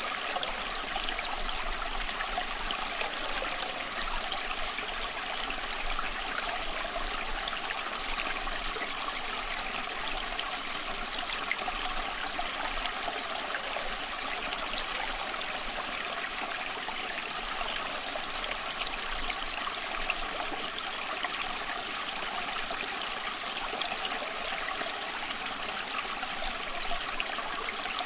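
A small stream running steadily, water trickling and babbling over stones.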